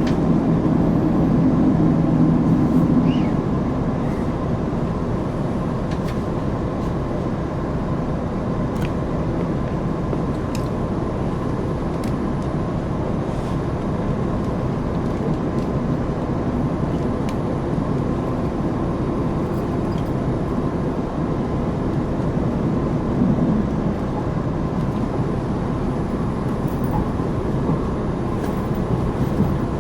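KiHa 261 series diesel express railcar heard from inside the cabin: the diesel engine's hum for the first few seconds, easing off, then the train running along with a steady rumble.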